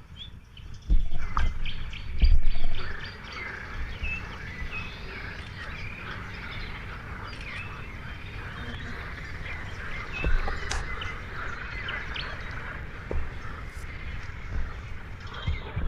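A dense chorus of small birds chirping and singing. A couple of low thumps sound in the first few seconds.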